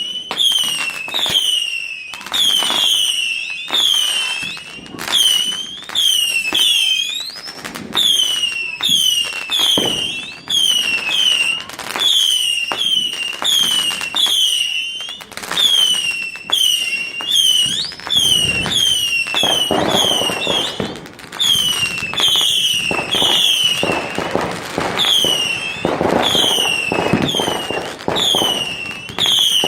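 A barrage of whistling fireworks: short shrill whistles falling in pitch, about two a second, one after another. Bangs and crackling bursts run underneath and grow heavier in the second half.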